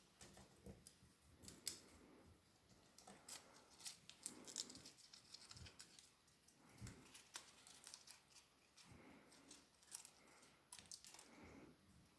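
Faint, scattered clicks, taps and rustling from small objects being handled, coming at irregular moments.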